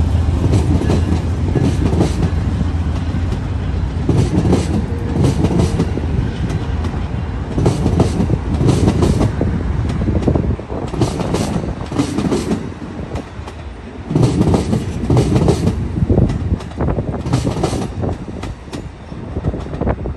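Amtrak passenger cars rolling past below, their wheels clacking over rail joints and switchwork in clusters every few seconds as each car's trucks cross, over a steady low rumble.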